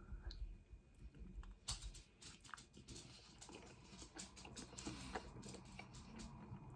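Faint close-up chewing of a mouthful of pizza: a run of small, irregular clicks from the mouth.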